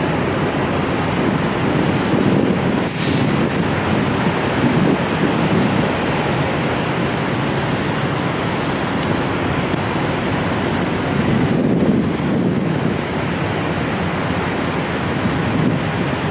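Steady road noise and low rumble of a vehicle in motion, a constant hiss with no breaks, with a brief sharper hiss about three seconds in.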